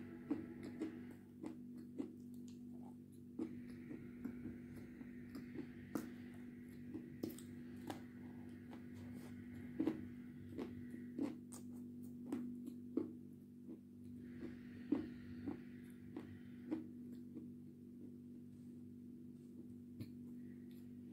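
Close-up wet mouth sounds of eating: sharp lip smacks and sticky clicks at irregular intervals as a soft white bar coated in red paste is chewed. A steady low electrical hum sits under it.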